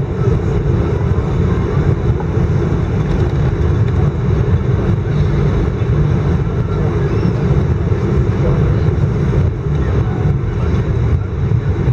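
Steady low rumble inside the cabin of an Airbus A319 taxiing after landing, with the engines at idle and the airframe rolling.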